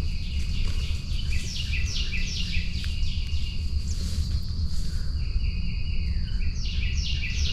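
A songbird singing two runs of quick, clear down-slurred whistles, a few notes a second, the second run starting near the end, over a steady high drone and a constant low rumble.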